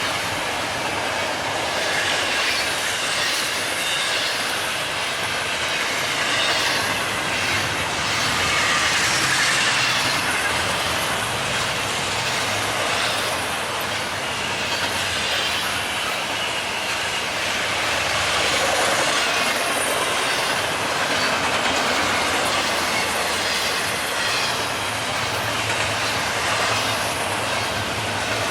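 BNSF train rolling past at speed: a steady rushing noise of wheels on rail, with quick repeated clicks of the wheels over the rail joints.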